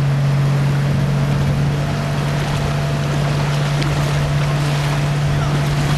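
Heavy diesel engine of an earth-moving machine running at a steady drone, with an even rushing noise behind it.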